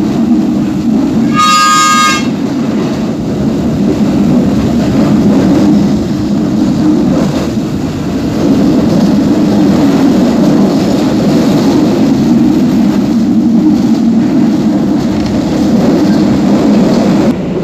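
Steady rumble of a moving passenger train heard from inside the carriage. About a second and a half in, a horn sounds once, briefly.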